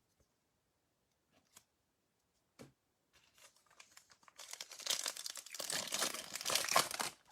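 The wrapper of a pack of baseball cards being torn open and crinkled, a dense crackling that starts about halfway through and lasts about three seconds. A single small click comes before it.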